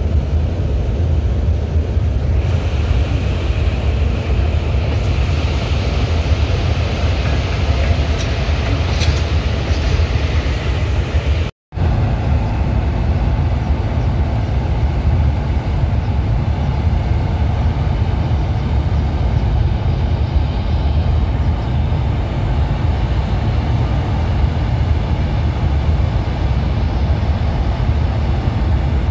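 Trains running through a railway station under strong wind rumble on the microphone. In the first part a rushing hiss builds as a train runs by; after a sudden cut, a steadier low rumble as a locomotive-hauled train rolls in toward the platform.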